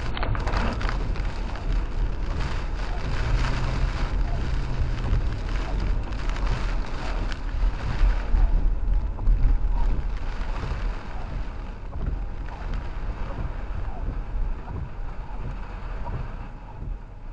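Rain and road noise inside a four-wheel-drive pickup's cab as it drives, with a low rumble from the truck underneath; it swells loudest about eight to ten seconds in, then eases.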